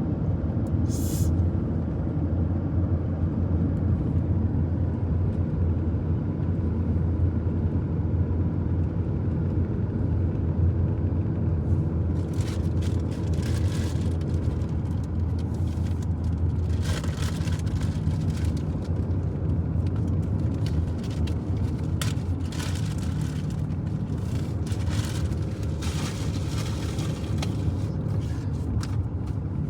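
Truck driving on the highway: a steady low drone of engine and tyres, with short bursts of hiss coming and going in the second half.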